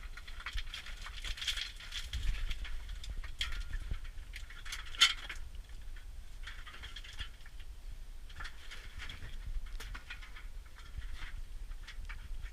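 Footsteps crunching on loose rock or gravel, in an uneven walking rhythm, with one sharp click about five seconds in.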